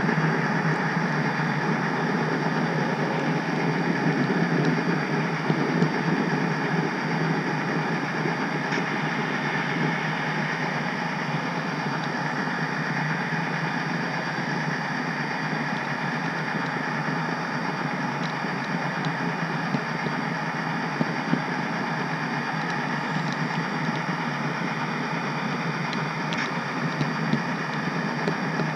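HO scale model train running, heard from a camera riding on the caboose: a steady rolling rumble of wheels on track, with a few scattered light clicks.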